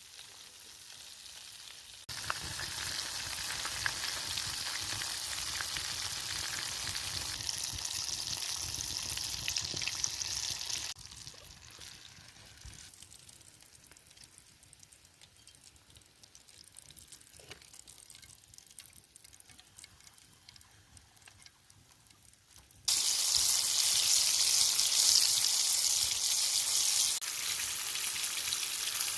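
Breaded chicken pieces frying in hot oil: a steady sizzle that drops abruptly to a quieter hiss about eleven seconds in and jumps back up loud near twenty-three seconds.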